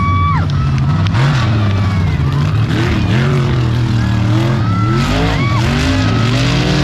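Mega truck engines revving hard, the pitch rising and falling again and again over a steady low engine drone.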